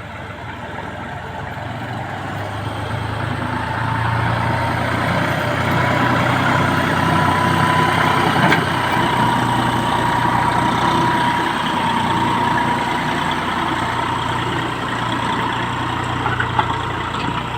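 Massey Ferguson MF4707 tractor's diesel engine running steadily, growing louder over the first several seconds, with a thin high whine through the middle.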